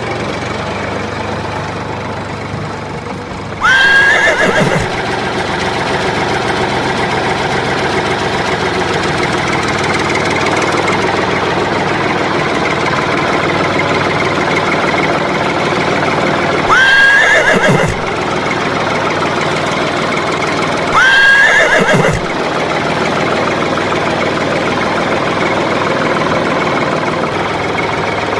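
Steady motor or engine running, with three loud brief calls that start high and swoop quickly down in pitch: about 4 seconds in, then twice more near the 17 and 21 second marks.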